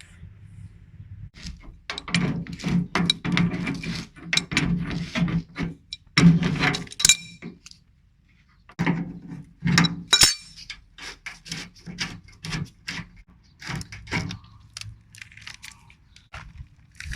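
Metal tools and fittings clinking and knocking in a dense, irregular run, with a short lull a little before halfway and fewer strokes near the end: hand work disconnecting the refrigerant pipes and wiring from an air conditioner unit.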